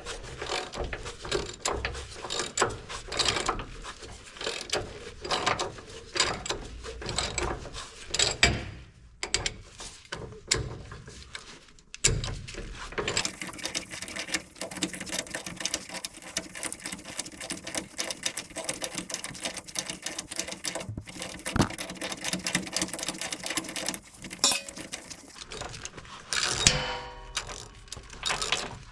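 Hand ratchet wrench clicking as a rusty cab-mount bolt, freed by heating its cage nut, is backed out. The clicks are irregular at first, then a long run of rapid, even clicking begins about halfway through.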